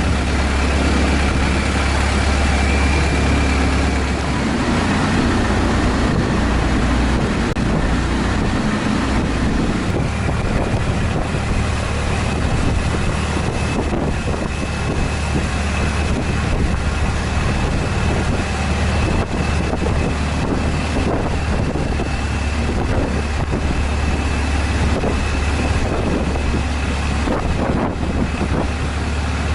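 Long-tail boat engine running steadily under way, a strong low drone with a thin high whine above it.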